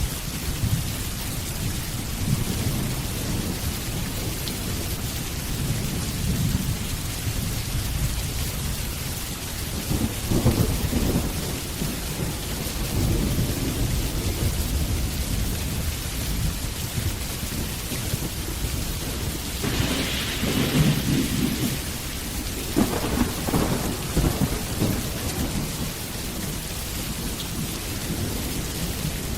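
Steady rain with thunder rumbling several times, the loudest peal about twenty seconds in.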